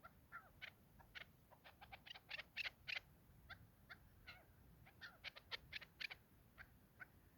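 Chukar partridges calling: faint runs of short clucking "chuk" notes that come quicker and louder about two to three seconds in and again around five to six seconds.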